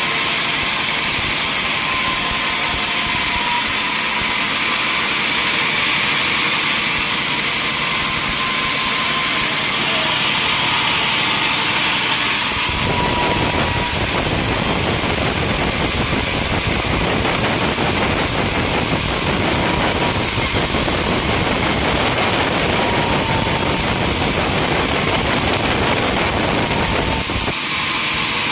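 Sawmill machinery running with a steady high hiss. About halfway through, a deeper, fuller noise joins in and carries on until just before the end.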